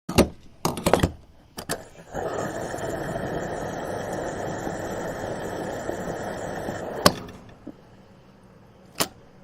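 Small electric motor of a DIY miniature machine running steadily for about five seconds, with a few sharp clicks before it starts and a click as it stops.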